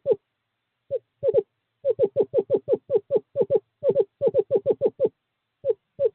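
Male screech owl calling to a female: a long series of short hoots, about five a second, in runs broken by brief pauses, with a gap of nearly a second near the start.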